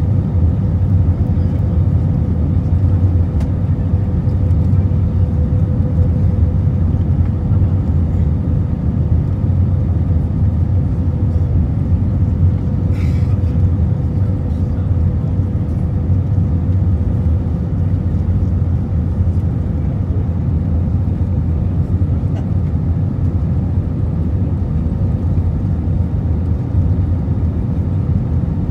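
Steady cabin noise of an Airbus A320-232 in flight: a loud, even low rumble of engines and airflow, with a faint steady hum above it.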